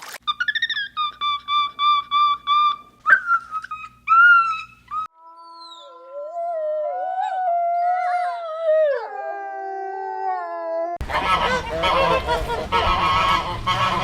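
A run of animal calls in three parts: a quick series of short honking calls, then one long howl that wavers and falls in pitch, then a dense, noisy jumble of calls near the end.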